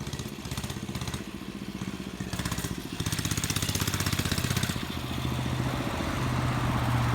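Motorcycle engine running with a steady, pulsing note. It gets louder about three seconds in and louder still near the end.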